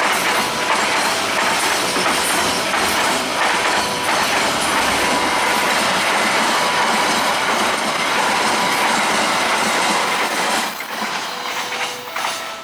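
A train passing at speed close by, its wheels clacking over the rail joints, until the last car clears about ten seconds in. Then the level crossing's electronic warning tones stand out, alternating between two pitches.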